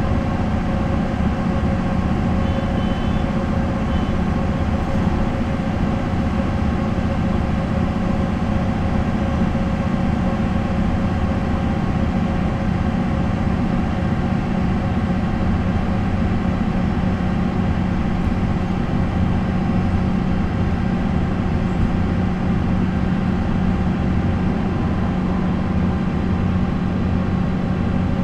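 MAN NL 263 city bus's D28 six-cylinder diesel engine running at a steady, unchanging pitch, with a constant drone and no gear changes or revving.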